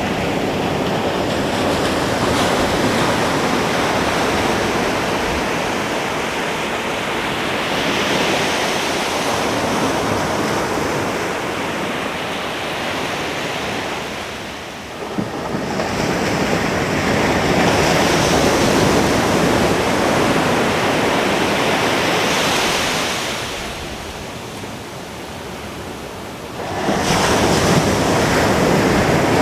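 Ocean surf breaking on a beach, a continuous rush of water that swells and ebbs. It drops back twice, briefly about halfway through and for a few seconds later on, before the next wave comes in sharply near the end. Wind rumbles on the microphone.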